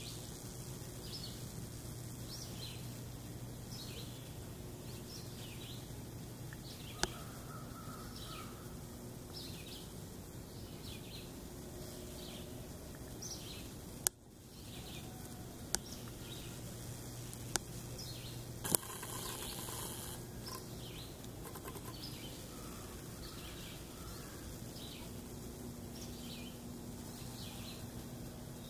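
Woodland birdsong: a bird repeating short high chirps over and over, with more bird calls behind it, over a steady low hum. A few sharp clicks stand out briefly, the loudest about two thirds of the way through.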